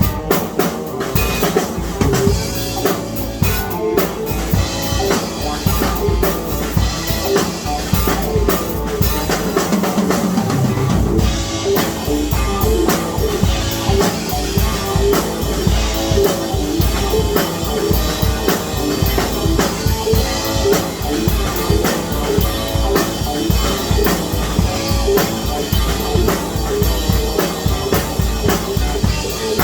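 Music with a drum kit playing a steady beat, bass drum and snare or rimshot hits, and guitar.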